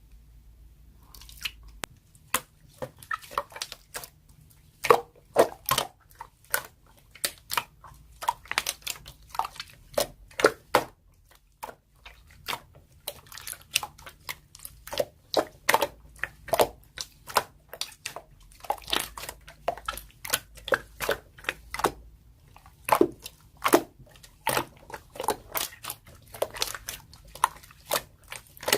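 Slime being squeezed and pressed by hand, making irregular sticky pops and crackles, several a second, with a brief pause about halfway through.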